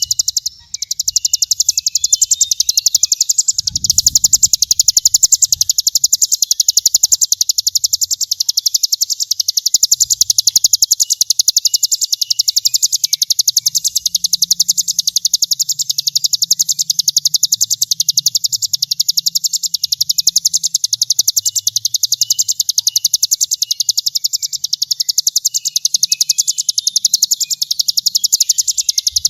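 Songbird training (masteran) recording of a sogon in 'brem' style: a rapid, continuous, high-pitched buzzing trill of very fast even pulses that runs on without a break, over a faint low hum.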